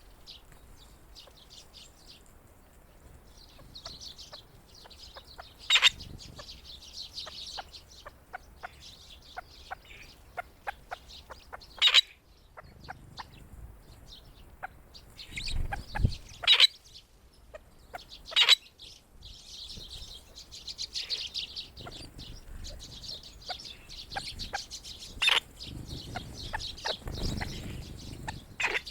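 A flock of grey partridges and small winter birds calling with soft chirps and clucks, mixed with many small ticks and a few louder sharp knocks.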